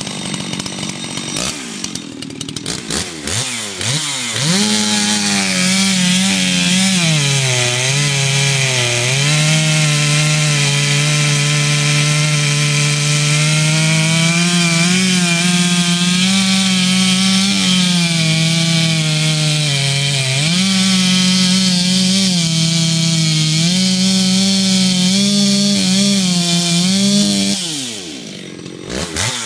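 Freshly ported Stihl 064 two-stroke chainsaw, squish band cut, running a 32-inch bar with full-comp square-ground chain. It revs up to full throttle about four seconds in, then its pitch drops as it pulls down into a cut through wood, rising and falling with the load. Near the end it drops back to idle before revving up again.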